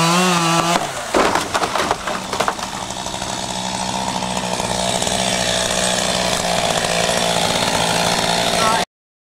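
Chainsaw engine running at speed, cutting through wood, with a crackle of snapping wood about a second in. The sound cuts off suddenly near the end.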